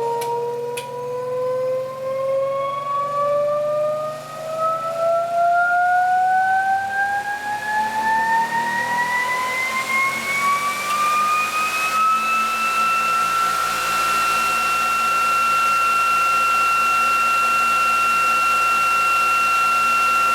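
Electric motor driving a generator rotor, spinning up with a whine that rises steadily in pitch for about twelve seconds, then holds steady at running speed. A few clicks sound near the start.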